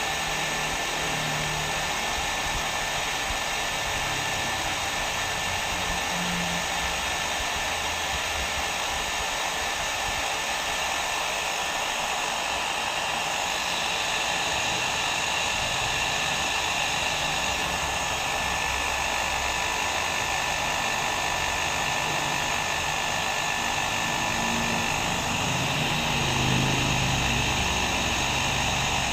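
Hair dryer blowing steadily, an even rushing whoosh of air with a faint motor whine and no change in speed.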